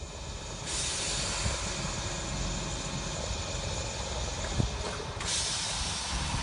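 Electric passenger train drawing slowly alongside the platform, with a steady loud hiss of air from about a second in that breaks off briefly near the end and resumes.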